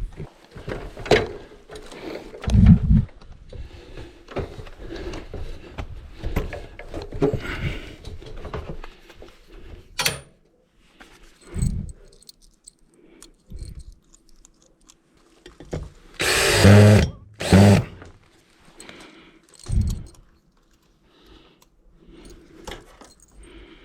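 A power drill driving a screw in two short bursts about two-thirds of the way through, amid scattered knocks and clatter of metal conduit and tools being handled.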